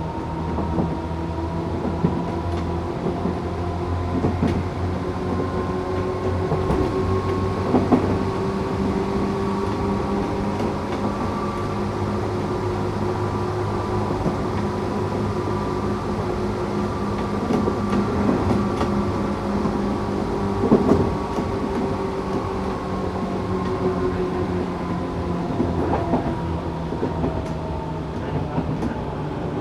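Tokyu 8500 series electric train running at speed, its Toyo-made traction motors and gears whining in several steady tones that rise slightly, hold, then fall gently toward the end. Under the whine is wheel-on-rail rumble, with a few sharp clicks over rail joints.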